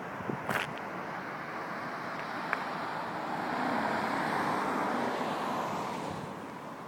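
A car passing on a nearby road: its tyre and engine noise swells, peaks about halfway through and fades away. Two or three short clicks come near the start.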